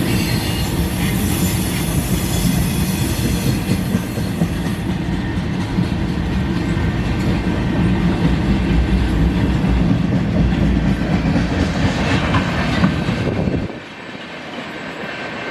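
Freight cars of a mixed freight train rolling past on the rails: a steady rumble with wheel clatter over the rail joints. The sound drops away suddenly near the end.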